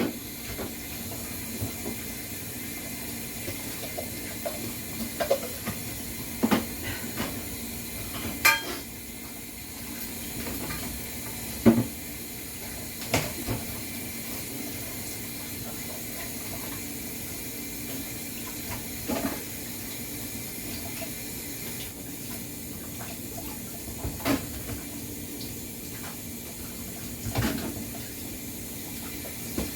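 Dishes and cutlery being washed by hand, clinking and knocking now and then over a steady hiss.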